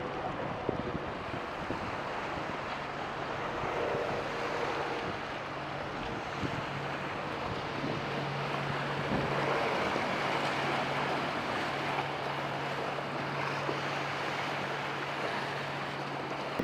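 Boat engines running with a steady low hum, under wind buffeting the microphone and breaking waves.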